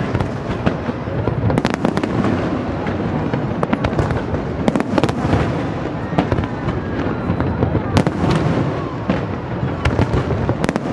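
Aerial fireworks display: shells bursting overhead in a continuous barrage of sharp bangs, one after another, over a steady rumble.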